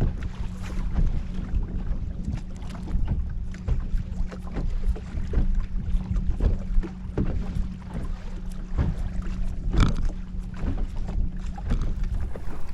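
Wind buffeting the microphone on a small fishing boat, over a steady low hum, with scattered irregular taps and knocks.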